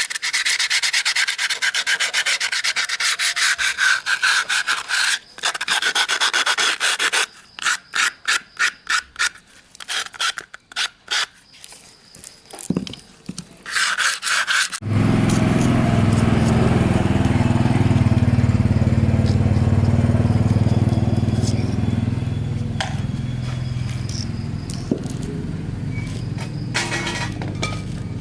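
Fast back-and-forth rubbing strokes, as in sanding or scrubbing carbon off metal parts, slowing into separate strokes. About halfway through, a motor starts and runs steadily with a low, even hum.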